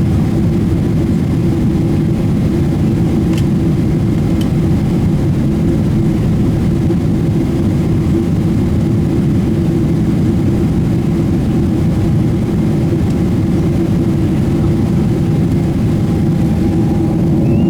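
Steady cabin roar inside a Boeing 777-300ER in the climb: engine and airflow noise from its GE90 turbofans, deep and even, with a faint steady hum. Two light clicks sound about three and four seconds in.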